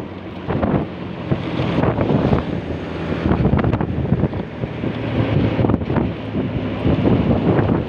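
Wind buffeting the microphone while travelling along a road, with a vehicle engine's steady drone underneath.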